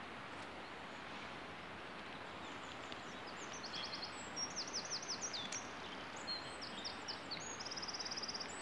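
A songbird singing over a steady outdoor hiss. A few seconds in it gives runs of quick, high, down-slurred notes, then a fast even trill near the end.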